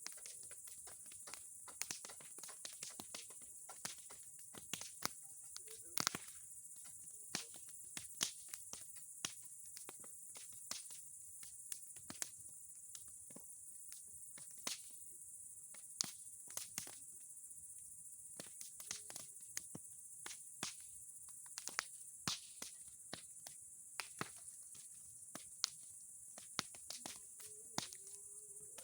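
Wood fire crackling: irregular sharp pops and snaps from burning boards and pine cones, the loudest about six seconds in, over a steady high-pitched hiss.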